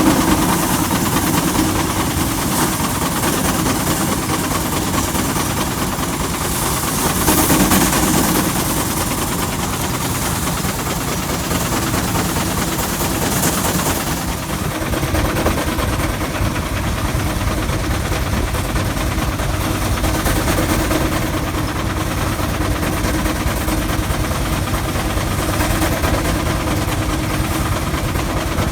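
Tractor engine running steadily under load while driving threshing machinery, with a rapid, even firing beat; it swells briefly about seven seconds in.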